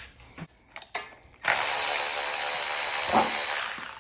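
A few light clicks, then a hand-held power tool runs steadily for about two and a half seconds and stops, spinning out valve cover bolts.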